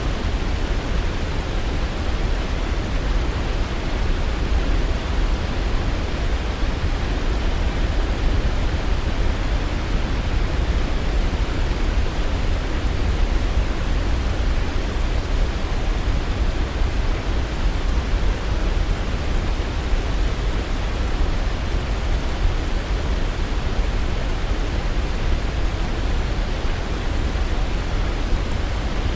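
Waterfall: falling water rushing in a steady, unbroken wash of noise, deepest in the low end.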